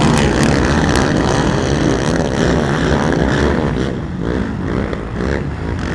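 Racing ATV (quad) engines, among them a Yamaha YFZ450, revving hard on a muddy motocross track, the pitch repeatedly climbing and dropping with the throttle.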